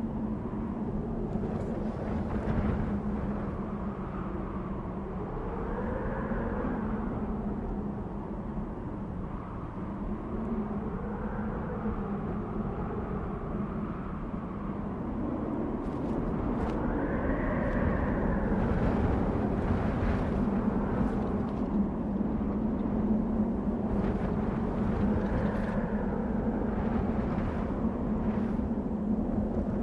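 Desert wind blowing in gusts, howling with slow rising and falling whistles over a steady low drone, with a few brief crackles in the second half.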